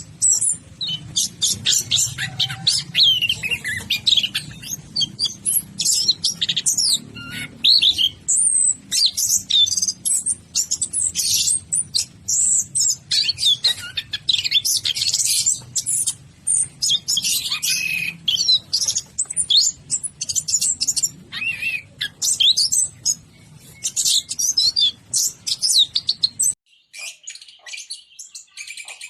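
Orange-headed thrush singing vigorously in a fast, nearly unbroken stream of varied, high whistles and chattering phrases over a low hum. Near the end the hum cuts off and another orange-headed thrush takes up the same kind of song.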